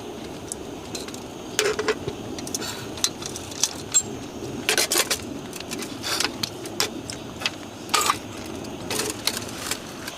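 Steady rain noise with scattered sharp clinks and knocks, about five of them spread over the stretch, like small hard objects being handled.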